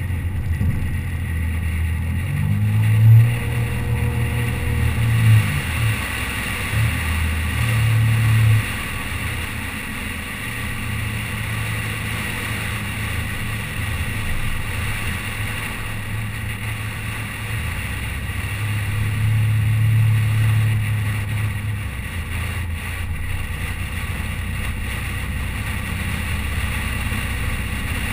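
A car engine running while driving, over steady road and wind noise. The engine note rises and then drops abruptly twice in the first nine seconds, and swells again about twenty seconds in.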